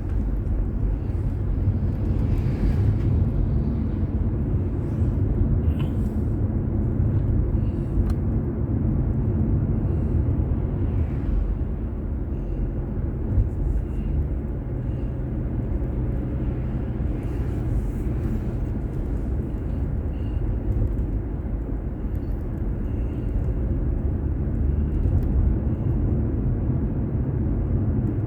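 Steady low rumble of a car's engine and tyres heard from inside the cabin while driving, picked up by a dashboard drive recorder.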